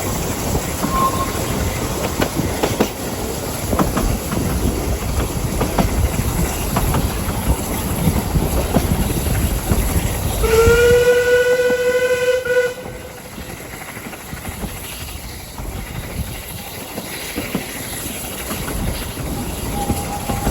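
Narrow-gauge train running with a steady rumble and wheel clatter; about ten seconds in a locomotive whistle sounds one blast of about two seconds, after which the rumble drops away to a quieter running sound.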